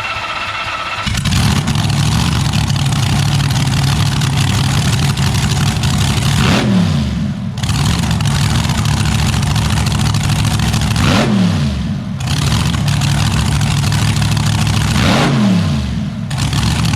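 A car engine revved hard and held at high revs, with the revs dropping sharply three times, about seven, eleven and fifteen seconds in, each time climbing back up. It cuts off near the end.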